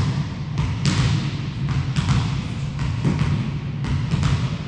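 Volleyball play in a sports hall: a series of sharp thumps and slaps, about eight in all, from the ball being struck and hitting the floor, over a steady low rumble of movement on the court.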